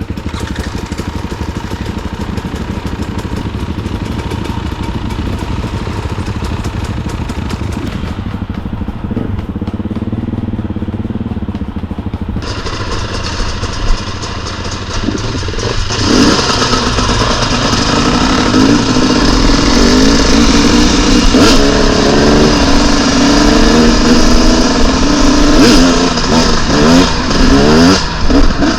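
Dirt bike engines running and revving, getting louder about twelve seconds in and again about sixteen seconds in, with the pitch rising and falling as the throttle is worked through the second half.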